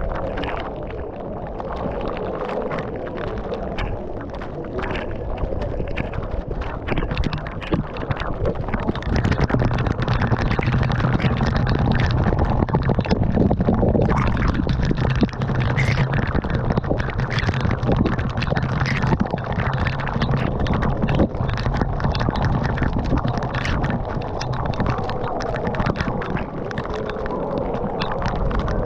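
Steady rushing of falling water with rumbling buffets on the microphone, the rumble growing louder about nine seconds in and easing off near the end.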